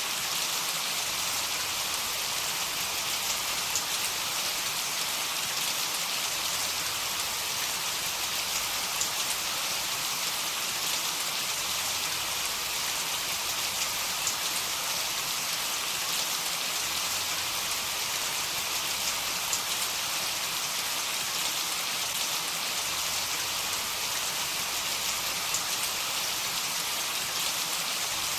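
Heavy rain falling steadily: an even hiss with the faint patter of individual drops, and no thunder.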